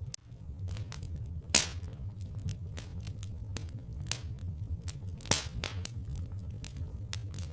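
Wood fire crackling, with scattered small pops and two louder pops about a second and a half in and about five seconds in, over a steady low rumble.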